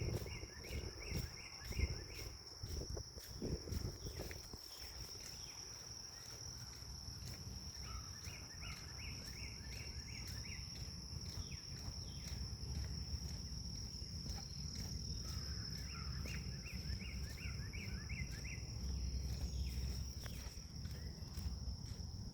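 Insects trilling steadily and high-pitched, with a bird's phrase of quick repeated notes sounding three times, about every eight seconds. A few footsteps in the first few seconds, and a low wind rumble on the microphone.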